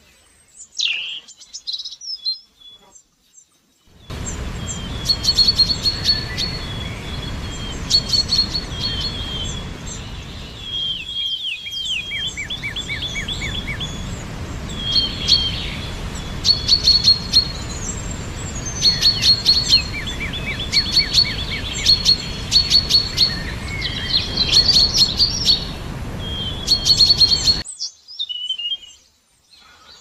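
Songbirds singing and calling: repeated high chirps, fast trills and short descending notes. For the first few seconds only a few scattered calls are heard. About four seconds in, a steady low background rumble begins under the songs and cuts off abruptly near the end.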